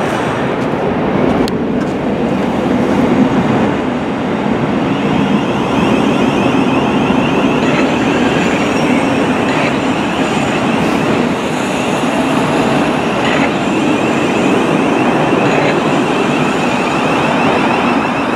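Passenger train running past: a loud, steady noise of wheels on the track, with a higher whine joining in about five seconds in.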